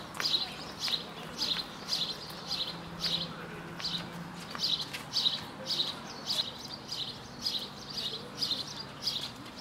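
A bird chirping over and over, short high chirps at a steady pace of about two a second.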